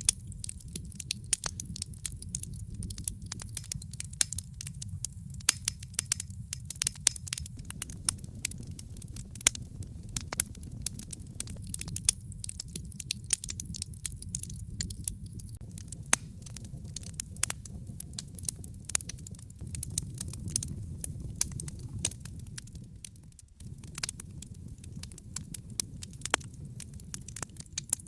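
Wood fire in a fireplace crackling, with irregular sharp pops and snaps over a low steady rumble that dips briefly near the end.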